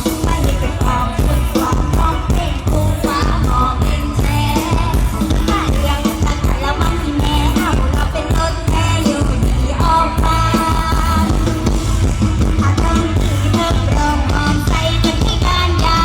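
Live Isan band music: a singer's voice over a loud drum kit and bass with a steady beat.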